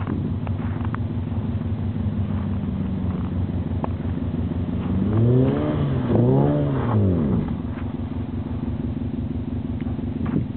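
A steady engine hum, then a 2007 Honda Civic coupe's four-cylinder engine revved up and back down twice in quick succession about five to seven seconds in, the loudest part, as the car slides around on the snow.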